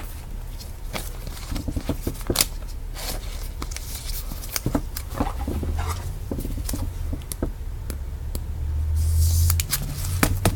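Football trading cards being handled and sorted by hand: scattered light clicks, taps and scrapes of card stock, over a low steady hum.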